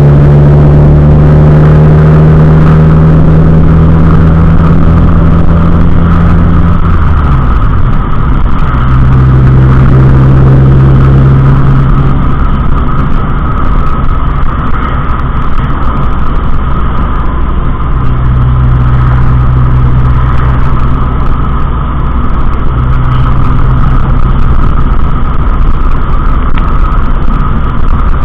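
Car engine and road noise while driving, a steady low drone whose pitch drops about seven seconds in and then settles again.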